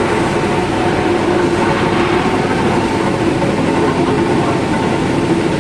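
Loud, steady mechanical drone with several constant hum tones, such as a running engine or motor makes.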